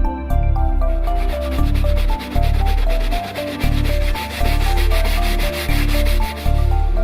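Rapid back-and-forth rubbing of an abrasive pad over leather, with a dense scratchy sound that starts just under a second in and stops shortly before the end. Background music with a melody and a steady bass plays throughout.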